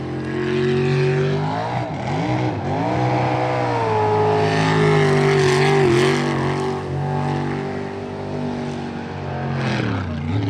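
Jet sprint boat's engine running hard through the course. Its pitch drops sharply twice about two seconds in as the throttle comes off for turns, then climbs back. It dips again near the end.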